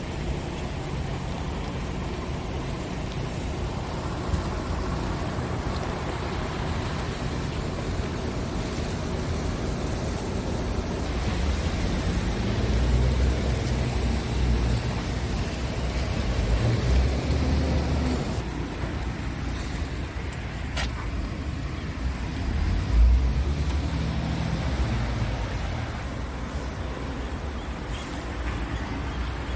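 Scania R tractor unit's diesel engine running, its low tone rising and falling in pitch and loudness as engine speed changes.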